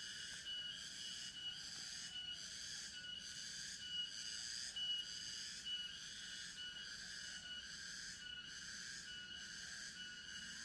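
A chorus of forest insects, cicadas and crickets, with high-pitched layered buzzing and chirping that pulses in a steady rhythm. Faint low calls can be heard underneath.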